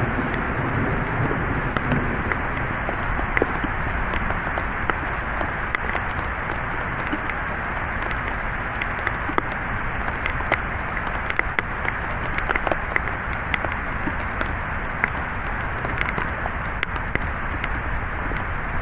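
Heavy thunderstorm rain falling steadily, with many sharp ticks of drops striking a nearby surface.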